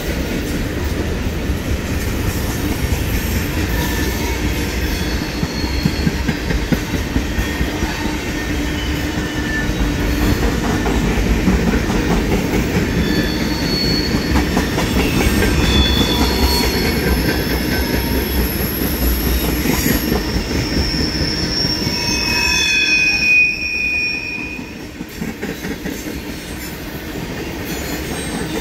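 Manifest freight train's tank cars and gondolas rolling past: a steady rumble and clatter of steel wheels on rail, with short high-pitched wheel squeals here and there. A sharper squeal comes near the end, then the rumble eases slightly.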